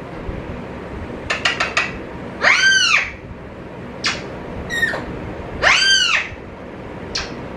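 Pet talking bird giving two loud, arched squawks about three seconds apart, with a quick run of clicks and a few short chirps between them.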